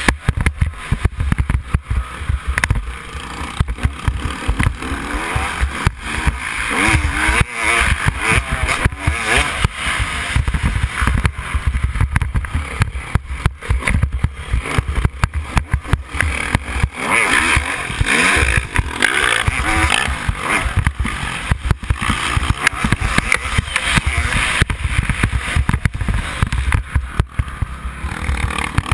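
Yamaha YZ250 two-stroke motocross bike engine revving hard and falling back again and again, as on a bumpy track, with constant low rumbling and knocking underneath.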